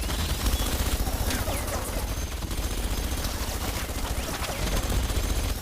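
A dense, rapid run of sharp cracks, like sustained gunfire, with faint whistling sweeps over it. It starts and stops abruptly.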